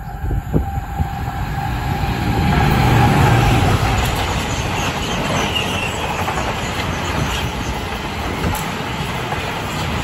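High-speed passenger train passing through a station at speed: the rush of wheels on rail builds quickly, peaks about three seconds in and stays loud as the train goes by.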